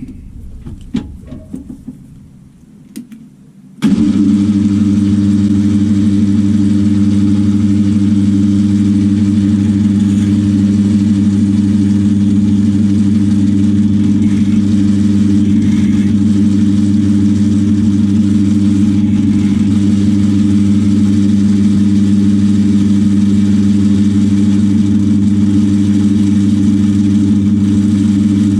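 Metal lathe motor switched on about four seconds in, then running with a loud, steady hum at a reduced speed for the parting-off cut on a brass bar. A few light clicks come before it starts.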